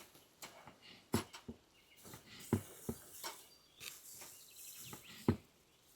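Scattered sharp knocks and clicks at uneven intervals, the loudest three about a second, two and a half seconds and five seconds in, with faint bird chirps behind them.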